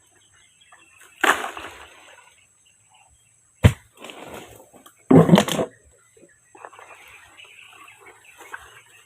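Close-miked eating sounds of young coconut (buko): a few loud, noisy slurps or bites about a second in and again about five seconds in, with a sharp knock between them, then softer wet chewing.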